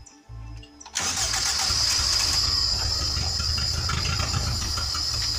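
Toyota 1NZ-FE inline-four, swapped into a Lada, starting up: a loud, steady engine noise comes in suddenly about a second in and keeps running.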